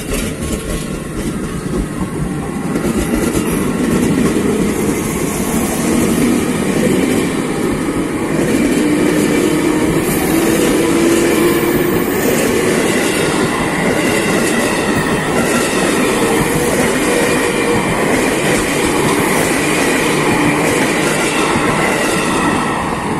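KRL Commuter Line electric train running past at speed on the near track, its wheels on the rails loud and steady. The sound builds over the first few seconds as it comes alongside and starts to fall away at the very end.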